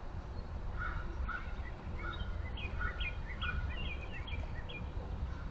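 Birds chirping: a quick run of short chirps lasting about three seconds, over a steady low rumble.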